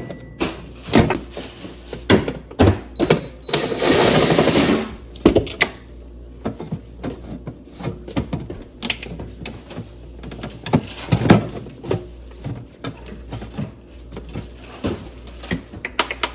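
Knocks, clicks and clatter of a refrigerator's plastic parts being handled as it is taken apart, with a harsh rasping burst lasting about a second and a half roughly four seconds in, over a steady low hum.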